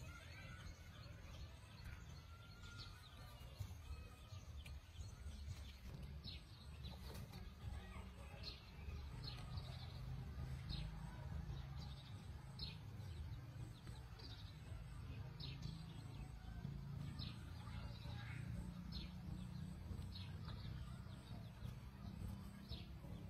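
A bird chirping, short high calls repeating every second or so, over a steady low rumble.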